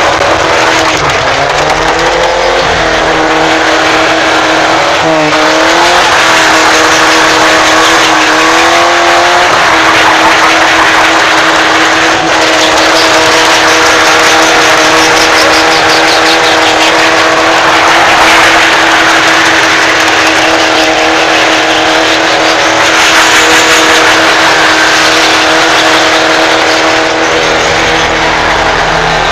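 Chevrolet Chevette's bored-out four-cylinder engine held at high revs, heard from inside the car. Its pitch dips and climbs back three times in the first ten seconds, then holds steady, over a constant hiss of tyres scrubbing on the pavement.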